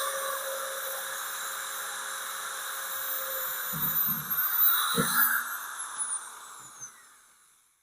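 Corded half-inch electric drill running lightly with a steady whine after a louder stretch of drilling, with a few knocks around the middle. Near the end its whine falls in pitch and the sound dies away.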